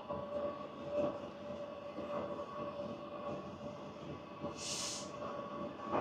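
Steady machine hum with two faint held tones, and a short hiss about four and a half seconds in.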